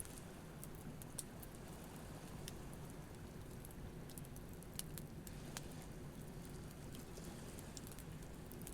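Wood campfire crackling with scattered sharp pops, over a steady low wash of surf.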